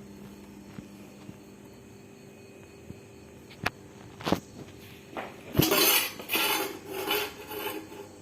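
Kitchen handling sounds while momos are folded by hand: two sharp taps a few seconds in, then several seconds of rustling and light clinking near the end.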